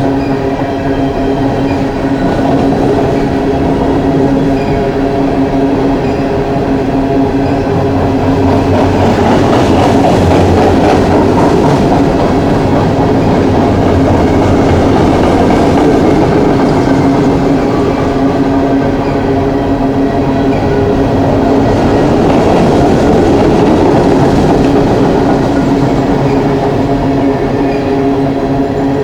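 Long coal train rolling past: a continuous clatter and rumble of wheels on rail, with steady droning tones under it, swelling a little twice.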